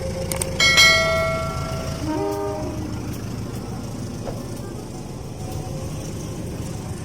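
A train's air horn sounds a loud blast about half a second in, then a shorter, lower-pitched blast around two seconds in. A steady low rumble from the train runs underneath.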